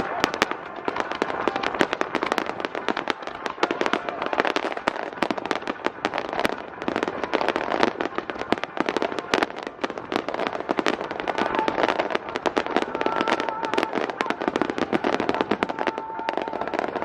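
Fireworks display with dense, continuous crackling and popping from a great many small bursts, as senrin (thousand-ring) shells each open into a cluster of small stars.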